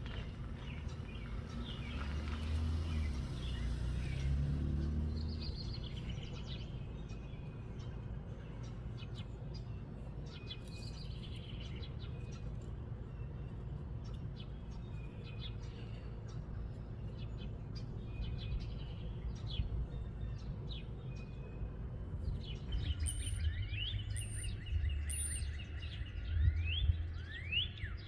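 Small birds chirping over wind rumbling on the microphone. The wind gusts up near the start and again near the end, when a run of quick rising chirps comes in.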